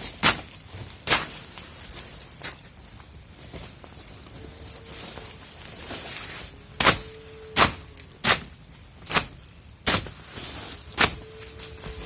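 An insect chirps steadily in a fast, high pulsing trill, while sharp knocks and clacks sound irregularly, about nine of them, bunched in the second half, as gear is handled and set down. A brief low hum comes and goes three times.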